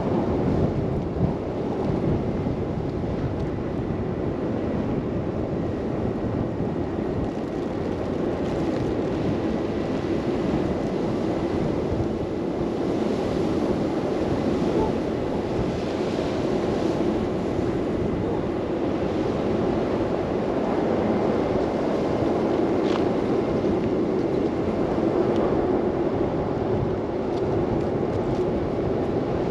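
Steady rush of wind and road noise from a car driving through a snow blizzard.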